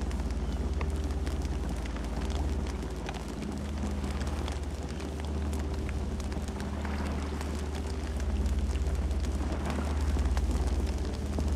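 Campfire burning: a low, steady rumble of flames with frequent, irregular sharp crackles and pops.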